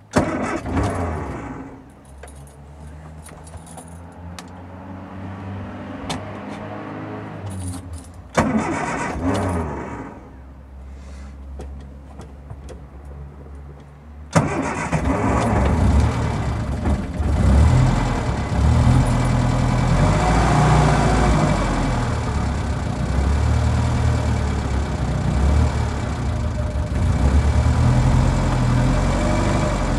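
Classic Mini's 998 cc A-series engine being cold-started with a little choke: it cranks and stumbles unevenly for several seconds, surges once, then about fourteen seconds in catches and runs on steadily, its idle wavering and set a little high. These engines are a little hard starting when cold.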